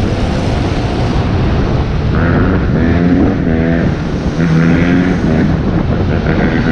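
Wind rushing over the microphone on a moving electric bike, with the whine of Surron electric dirt-bike motors rising and holding in pitch several times from about two seconds in.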